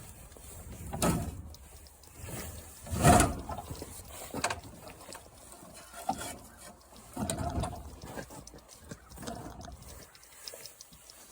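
Metal clicking and clattering of hand tools working on a lawn mower engine, in several short bouts with sharp clicks between them; the bout about three seconds in is the loudest.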